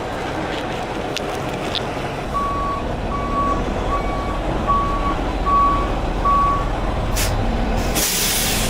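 Heavy truck reversing with its diesel engine running: the back-up alarm beeps six times at an even pace, then there is a short air hiss and, near the end, a long loud air-brake hiss.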